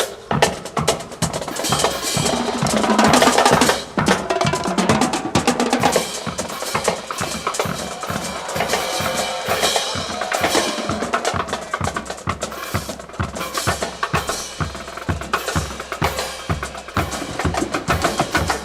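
Band music with a steady snare and bass drum beat, about two strokes a second, under sustained wind and brass lines that are strongest in the first few seconds.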